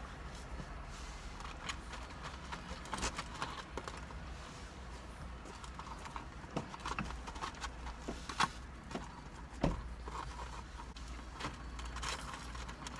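Eating sounds close to the microphone: chewing and mouth clicks of people eating fried chicken tenders and fries, with scattered small taps and clicks, two of them louder in the second half. A steady low hum lies under it.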